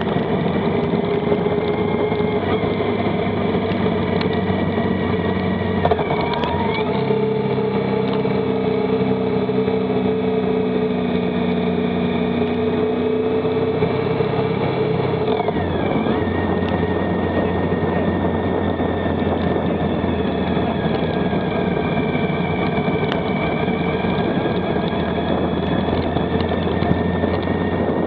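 Motorcycle engine running at road speed under a steady rush of noise, its note changing about six seconds in and again about sixteen seconds in.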